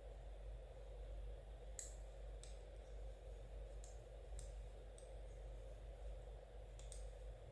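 Knitting needles clicking lightly against each other, about seven faint clicks at an uneven pace over a steady low hum.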